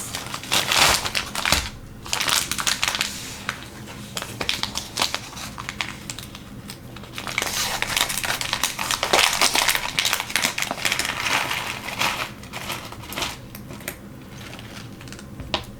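Plastic packaging crinkling and crackling as it is handled and opened, in a continuous irregular stream of sharp crackles.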